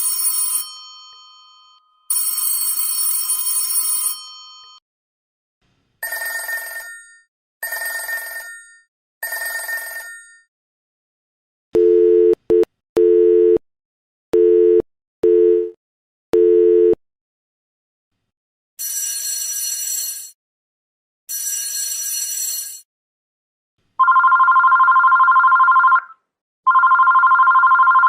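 Several different telephone ringers played one after another. First come bright bell rings in bursts of two to three seconds; then a low buzzing ring in short beeps about twelve seconds in; then two more bell-like rings; and near the end a steady two-note electronic ring, sounded twice.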